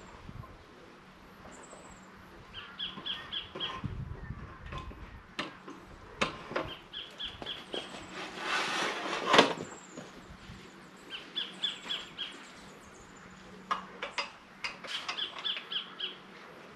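A bird sings the same short, rapid trill about every four seconds. Under it come scattered knocks and clanks from the cantilever umbrella's metal pole being handled onto its cross base. About nine seconds in there is a rustling swell that ends in a sharp knock.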